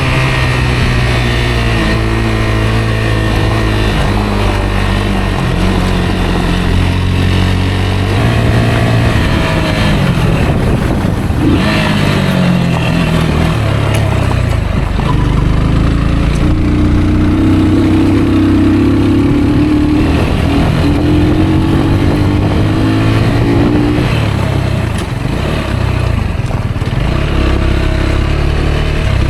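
Rieju Aventura 125 motorcycle's single-cylinder engine running under way, its revs rising and falling again and again as the rider works the throttle and gears, with a hiss of wind and riding noise over it.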